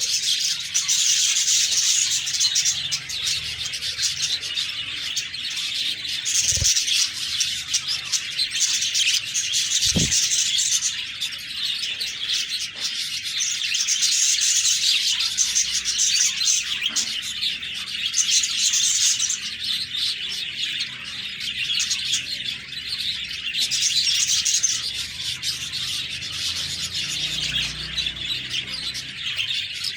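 Budgerigars chirping and chattering continuously, swelling louder and easing off every few seconds. Two brief low thumps come about six and ten seconds in.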